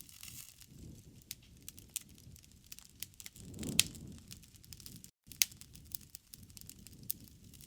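Wood fire crackling in a fireplace: irregular sharp pops and snaps over a low rumble, with the loudest pop about four seconds in. The sound drops out for a split second a little after five seconds.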